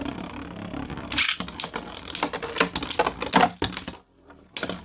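Two 3D-printed plastic Beyblade spinning tops whirring and repeatedly clashing in a stadium: a rapid run of hard plastic clicks and knocks. The clatter drops away about four seconds in, followed by one sharp hit near the end.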